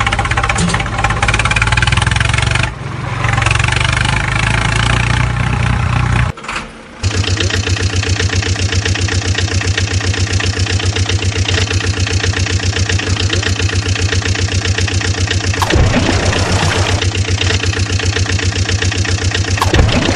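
Engine running loudly. It breaks off briefly about six seconds in, then comes back as a steady, evenly pulsing idle.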